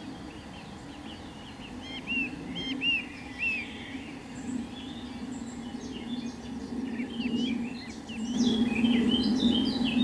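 Several small birds chirping in quick, short arched notes, busier in the second half. A steady low hum runs underneath and grows louder near the end.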